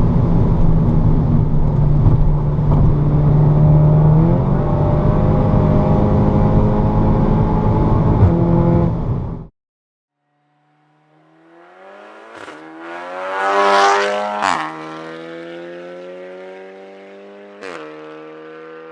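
Audi S3 8V's turbocharged four-cylinder engine running through an Armytrix valvetronic exhaust in a tunnel. The steady engine note steps up in pitch about four seconds in and cuts off abruptly. After a moment of silence the car builds to a loud pass with three sharp exhaust cracks, then fades away as its pitch slowly rises.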